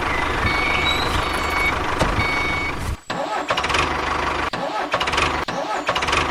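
Mini tractor engine running steadily, cut off sharply about three seconds in and then picking up again.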